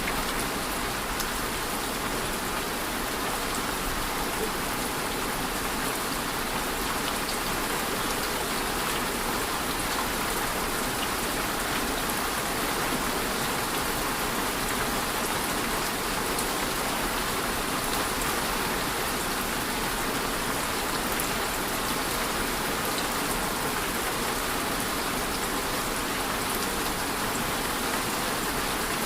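Steady rain falling, an even hiss of many drops with faint scattered drip ticks, unchanging throughout.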